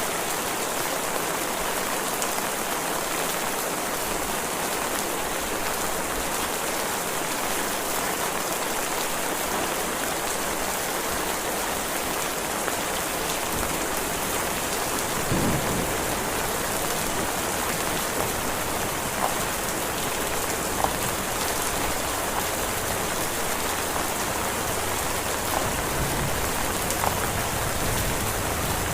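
Heavy rain falling steadily, an even hiss of rain on surfaces with a few sharper drop ticks and a brief low thud about halfway through.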